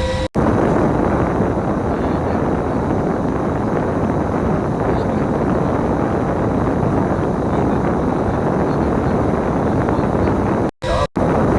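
Bus on the move: a steady mix of engine and road noise, with the sound cutting out for an instant near the start and twice about eleven seconds in.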